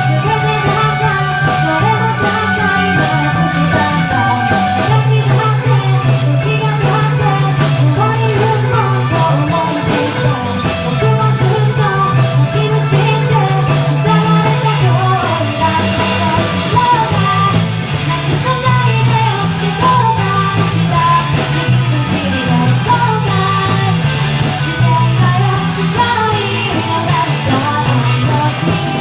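Rock band playing live: a singer over electric guitars, bass and drum kit, with a steady driving beat.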